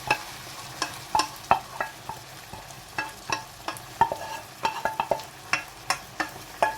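Chicken and prawns sizzling steadily in sesame oil in a hot pan, while a utensil stirs them and knocks sharply and irregularly against the pan.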